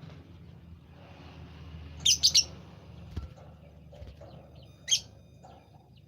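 A songbird chirping: three loud, sharp, high chirps in quick succession about two seconds in, then one more just before five seconds, over a faint low hum.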